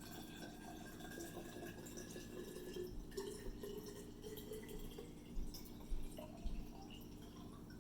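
Water poured in a thin trickle into a small glass potion bottle, filling it toward the top, with a faint pitch that rises slightly as it fills. A few light knocks follow in the second half.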